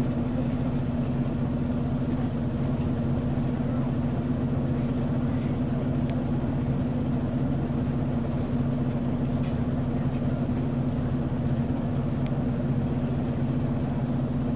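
Scania L94UB city bus's diesel engine idling steadily: a constant low drone with no revving.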